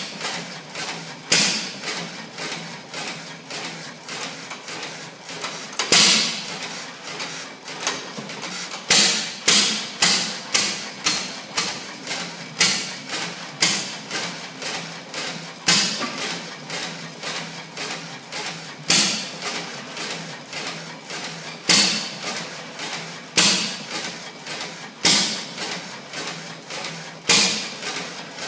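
15 HP Fairbanks Morse Z stationary gas engine running, its loud firing strokes coming at uneven intervals a second or more apart, with lighter regular ticks between them.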